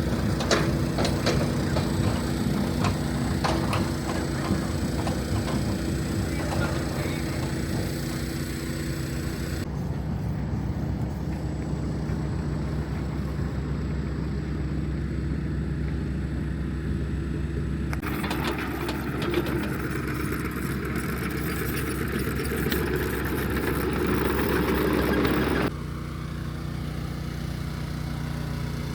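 Earthmoving machinery's engine running steadily while grading and compacting dirt, with clanks and rattles in the first few seconds. The sound changes abruptly three times as the shots change.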